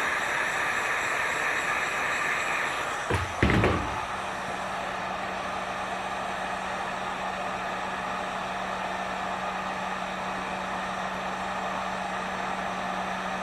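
Electric heat gun blowing steadily while heating vinyl graphics. About three seconds in there is a brief knock and the gun's sound changes, settling into a steady blow with a low hum.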